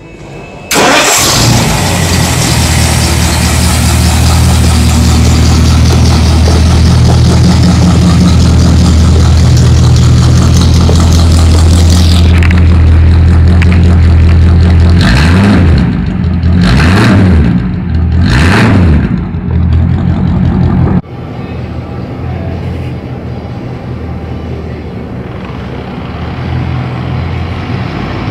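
1955 Ford Fairlane's 292 V8 starting about a second in and idling, then revved three times in quick succession and settling into a quieter, lower idle.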